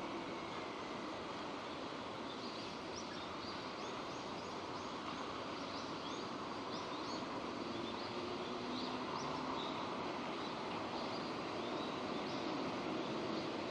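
Steady rain falling, an even hiss. Through the middle a scatter of short, high-pitched chirps sits on top of it.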